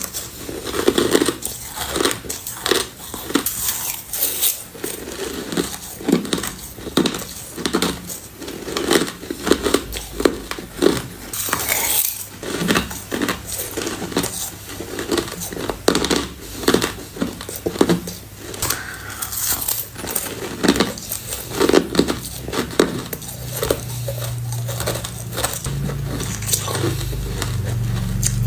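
Close-miked crunching of crushed ice being bitten, a quick irregular run of sharp crunches, several a second.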